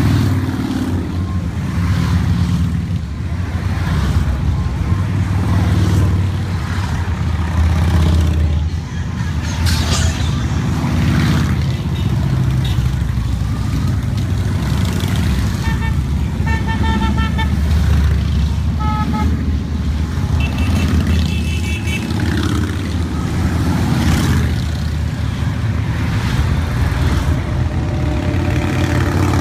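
A steady procession of motorcycles rumbling past, their engine noise swelling and fading as each bike goes by. Several short horn beeps sound in quick runs around the middle.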